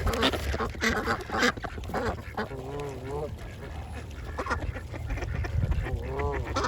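Ducks quacking: a burst of rapid, harsh quacks in the first second and a half, then two longer, wavering calls about three seconds apart.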